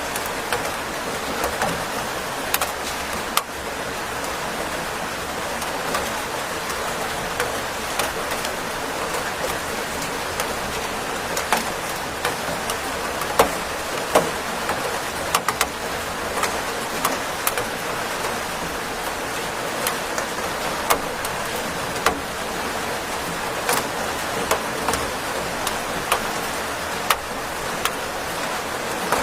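Steady rain falling, with many single drops hitting close by as sharp ticks scattered through it.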